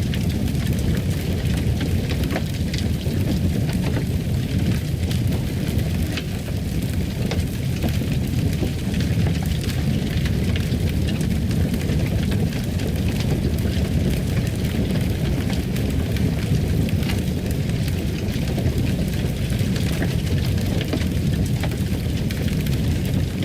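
Fire crackling in a fireplace: a steady low rumble with scattered small crackles and pops.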